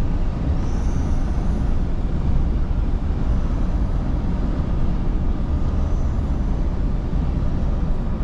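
Scania V8 truck cruising, heard from the cab: a steady low engine drone mixed with road and wind noise.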